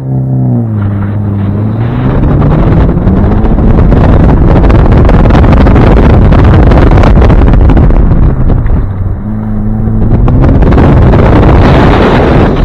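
Hyundai Elantra N's turbocharged 2.0-litre four-cylinder pulling hard on an autocross run. The engine note rises in the first few seconds and again near the end. Heavy wind buffeting on the microphone largely buries it in between.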